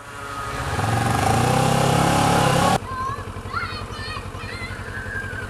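Kawasaki ER-6f (Ninja 650R) parallel-twin engine accelerating, its pitch rising for nearly three seconds, then the throttle closes sharply and it drops to a quieter steady run.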